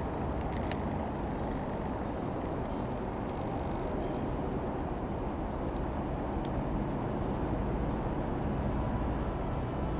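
Steady engine rumble that grows slightly louder near the end, with a few faint clicks about half a second in.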